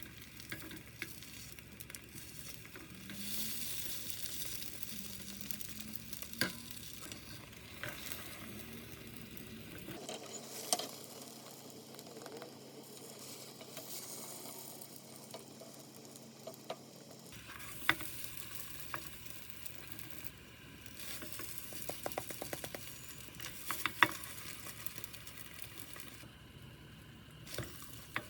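Food frying and sizzling in a pan, with occasional sharp clicks and knocks of a cooking utensil against it.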